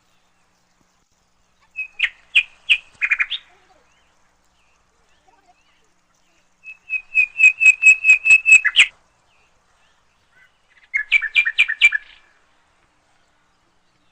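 A bird chirping in three quick bouts of rapid repeated notes. The middle bout is the longest, a run of about ten notes at some five a second.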